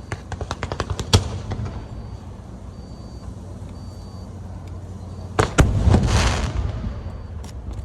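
Aerial fireworks going off: a rapid string of sharp bangs ending in a loud bang about a second in, a low rumble, then another loud pair of bangs about five and a half seconds in followed by a hissing crackle.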